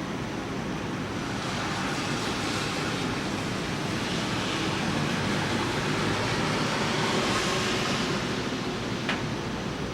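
Steady rain hiss, swelling slowly louder over several seconds and then easing off, with a single short sharp tick near the end.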